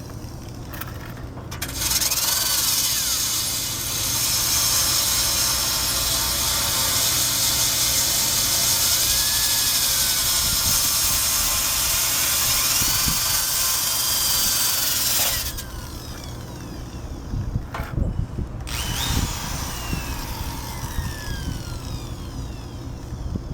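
Drill-driven wire brush scouring rust off the steel frame of a 1965 Honda Cub: a loud, harsh scraping that starts about two seconds in and stops about fifteen seconds in. Lighter knocks and clatter of handling follow.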